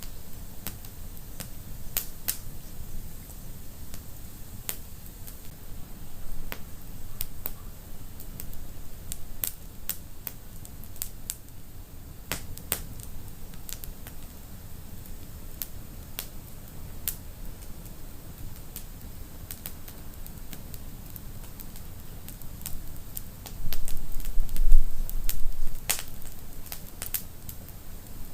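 Wood fire in a fireplace crackling, with sharp irregular pops and snaps over a steady low rumble. A louder low rumble swells for about two seconds near the end.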